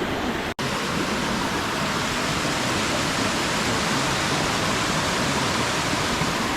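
Steady, full rushing roar of a nearby waterfall, broken by a brief dropout about half a second in.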